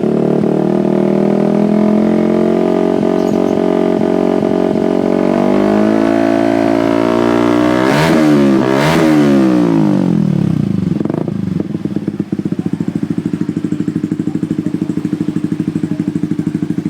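Yamaha Xabre's 150 cc single-cylinder engine running through a LeoVince Cobra racing exhaust: held at raised revs, then revved up twice in quick succession about eight seconds in. It falls back to a pulsing idle for the last few seconds.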